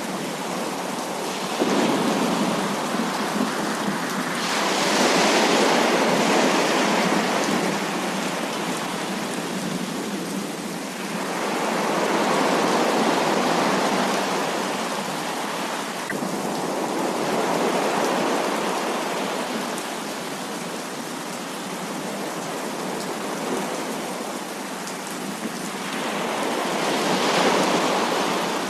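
Heavy rain falling steadily, with rolls of thunder that swell and fade again several times.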